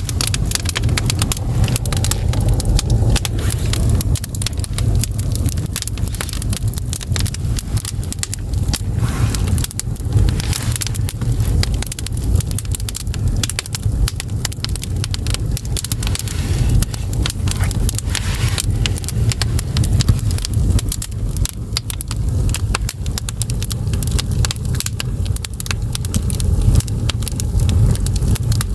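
Firewood burning in an agungi, the wood-fired firebox that heats a Korean ondol floor, crackling and popping irregularly and constantly over a steady low rumble.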